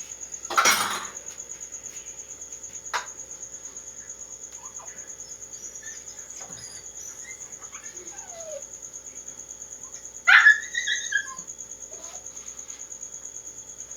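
A dog barking: one loud bark about half a second in, then a quick run of higher yelps about ten seconds in. A steady, fast-pulsing high chirring of crickets runs underneath.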